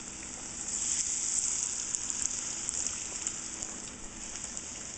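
Beer-battered cod pieces deep-frying in hot oil: a steady sizzling hiss with fine crackles, swelling a little about a second in.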